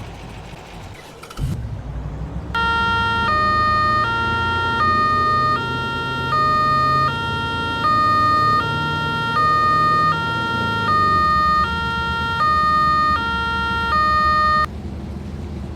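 A two-tone emergency-vehicle siren alternating between a high and a low note about every three-quarters of a second, over a low engine rumble. The rumble starts with a thump about a second and a half in, and the siren starts about a second later and cuts off suddenly near the end.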